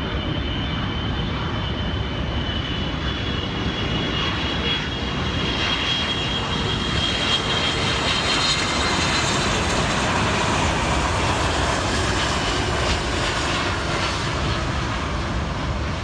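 Large jet airliner on final approach passing by, its engines running with a steady rumble and a high whining tone over the first half. The noise builds to a peak around the middle and eases slightly toward the end.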